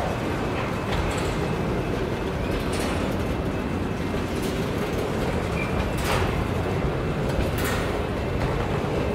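Empty grain train of covered hopper cars rolling past: a steady rumble of steel wheels on rail, with a few sharp clanks and screeches scattered through it.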